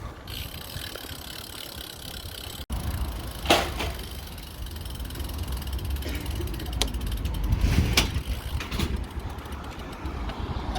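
Bicycle freewheel ratcheting in rapid, even ticks as the bike coasts, over a low rumble of wind on the microphone, with a few sharp knocks from bumps about a third of the way in and again later.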